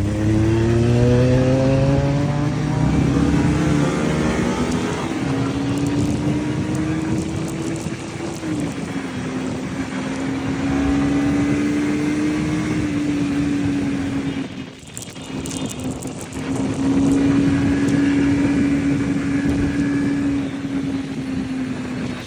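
Several heavy motorcycles riding past, their engines revving up early on and then running at a steady pitch, with a short drop in level about fifteen seconds in before another engine comes through.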